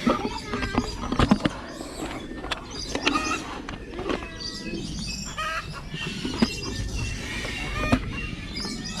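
Many birds calling in an aviary: a busy mix of short chirps and squawks, with clucking calls that sound like a chicken.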